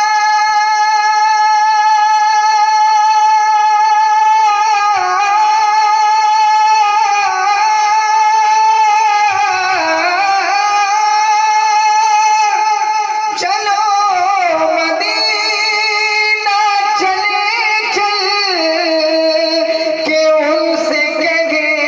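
Devotional naat singing: one voice holds long, wavering melismatic notes, with the pitch sliding at a few points, over a sustained musical accompaniment.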